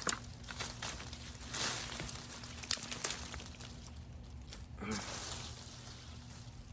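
Rustling, crackling and snapping of dry, spent okra stalks and sweet potato vines being pulled up and handled, with a cluster of snaps around the middle and a louder rustle near the end.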